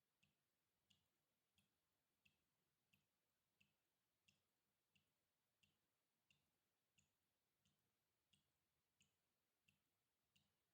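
Water dripping in a steady, even rhythm, one faint drop about every two-thirds of a second.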